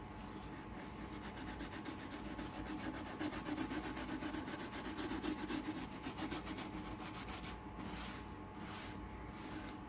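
Rapid back-and-forth rubbing by hand on wood furniture as old paint is worked off, several strokes a second. It changes to a few slower, longer strokes near the end.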